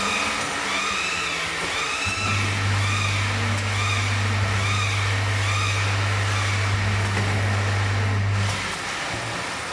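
Automatic rice packing machine running. A steady electrical hum comes on about two seconds in and stops about a second before the end. Over it a repeating squeal rises and falls about once a second and fades away.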